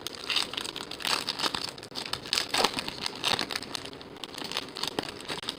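Crinkling and rustling of a trading-card pack wrapper and cards being handled, a dense run of irregular sharp crackles.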